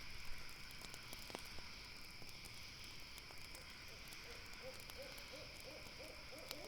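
An owl hoots in a quick run of short, even notes, about three a second, through the second half. Under it are the sparse crackle and pop of a campfire and a steady high insect chirring.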